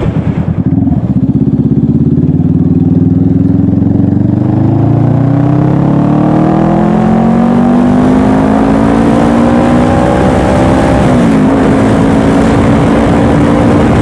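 Honda CBR500R parallel-twin motorcycle engine under acceleration, its pitch climbing steadily for about ten seconds, dipping at a gear change near the end, then holding steady.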